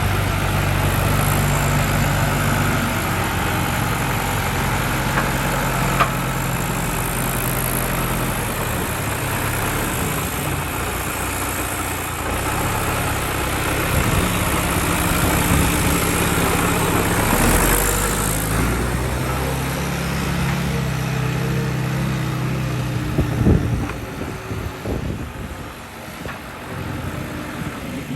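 John Deere 2750 tractor's diesel engine running during a test drive, its pitch shifting up and down with the throttle. Near the end it drops much quieter, with a few sharp knocks.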